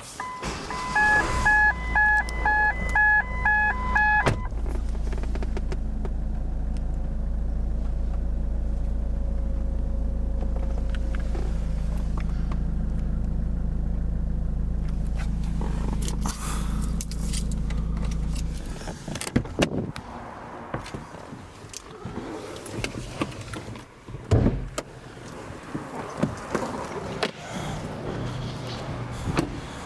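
A Ford S-Max's warning chime beeping in a quick repeating pattern of two pitches for about three seconds while the engine runs at a steady idle. The engine stops about two-thirds of the way through, and a few clicks and knocks follow.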